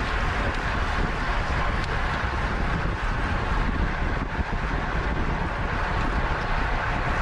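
Wind rushing over the microphone of a camera carried by a racing cyclist, a steady, even noise with no break.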